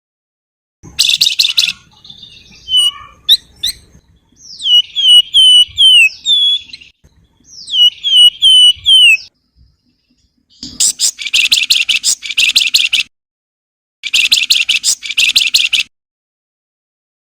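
Wergan Jawa (Javan fulvetta) singing. It gives runs of four or five quick downslurred whistles, then long, rapid scratchy chattering trills, phrase after phrase with short pauses between.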